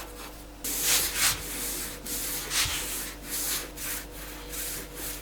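Paint being brushed onto a laminated chipboard frame: a run of uneven scratchy strokes, about two or three a second, starting a little under a second in.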